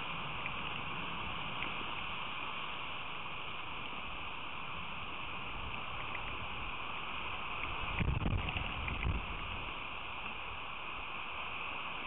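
Steady hiss of rain falling, picked up by a feeder camera's microphone, with a short low rumble about eight seconds in.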